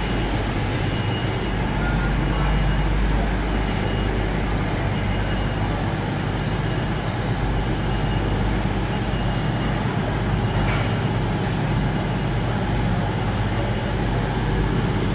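Steady train noise: a continuous low hum and rumble with a few faint clicks.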